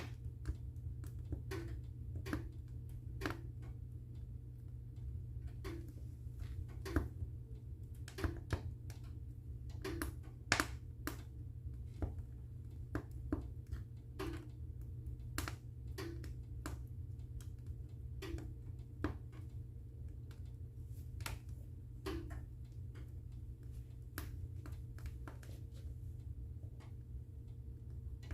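Wood fire crackling in a fireplace: irregular sharp snaps and pops, one or two a second, over a steady low rumble.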